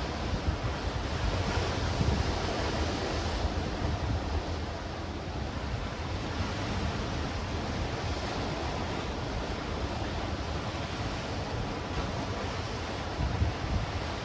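Sea waves washing against black rocks and stones, a steady surf wash with wind buffeting the microphone.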